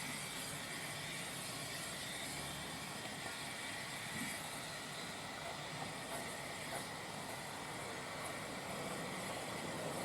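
Steady running noise of a narrow-gauge train moving along the line, an even rushing sound with a few faint ticks.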